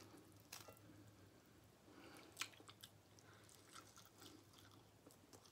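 Faint chewing of smoked turkey leg meat, with a few soft, scattered mouth clicks.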